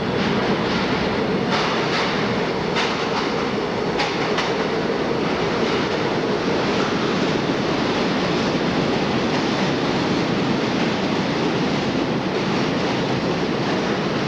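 A New York City subway work train of R22 and R30 work motors running steadily on the rails, with a few sharp clacks from the wheels over rail joints in the first few seconds.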